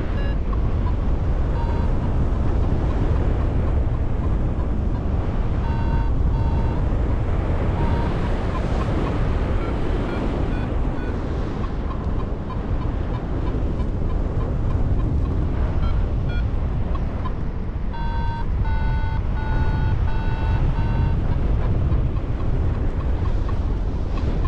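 Heavy wind rushing over the microphone in flight, with a flight variometer's short electronic beeps now and then and a quicker run of beeps near the end, signalling climb in lift.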